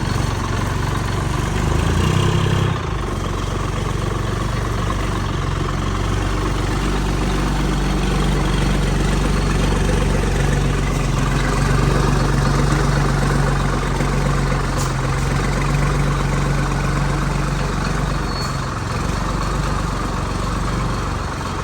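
Vintage Flxible bus engine idling steadily.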